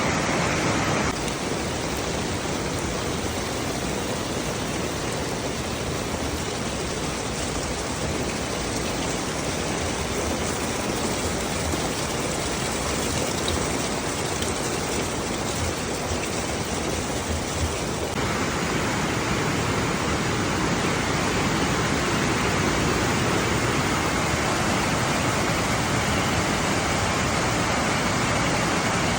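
Steady rush of flowing floodwater, a continuous even roar of water that changes character abruptly about a second in and again at around 18 seconds.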